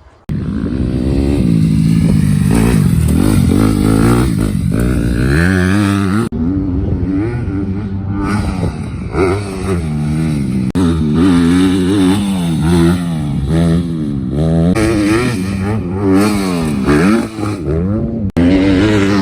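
85cc two-stroke dirt bike engine revving up and down as it is ridden, the pitch climbing and dropping again and again. The sound breaks off abruptly a few times and jumps to another stretch of riding.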